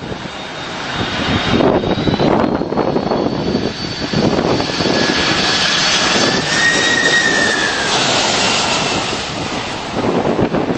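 Landing airplane passing low overhead. The engine noise builds after the first second and holds loud, with a high whine that rises and then falls away, before easing off near the end.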